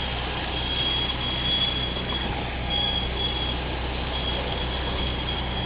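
Truck engine running steadily at idle, with a faint high-pitched beeping that comes and goes.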